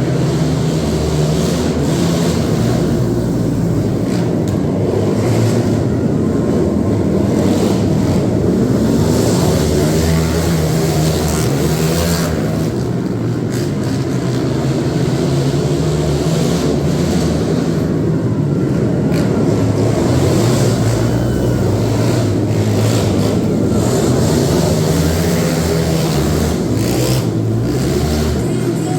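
Loud motor vehicle engines running and revving continuously, their pitch rising and falling without a break.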